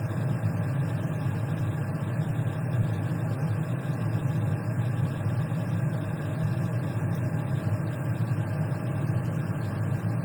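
A steady low drone, unchanging throughout, with no speech over it.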